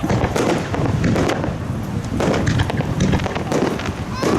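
Aerial fireworks bursting in quick, irregular succession, a dense run of bangs and crackles, with a rising whistle of a launching shell at the very end.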